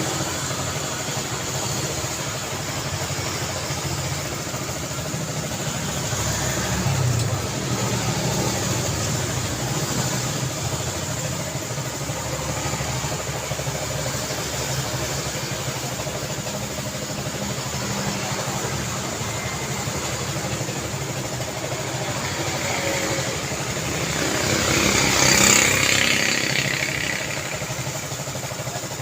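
Steady daytime road traffic, engines and tyre noise of passing cars. A louder vehicle passes close by, rising and falling, about 25 seconds in.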